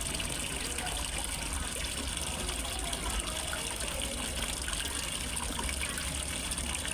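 Water splashing and trickling steadily into a fish pond, as from a small pond waterfall, with an even, unbroken rush.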